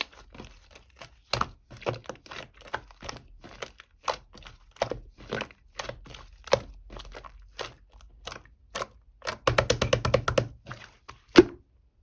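A string of short, irregular clicks, taps and crackles. A quick cluster of them comes about nine and a half seconds in, and a single sharp knock follows near the end.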